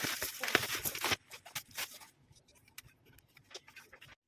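Packaging rustling and crinkling for about a second, then a few light clicks and knocks as the hair dryer is handled.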